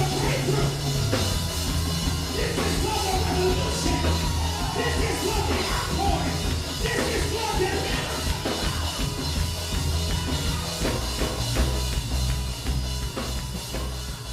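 Live band music with a drum kit and a bass line, with voices over it.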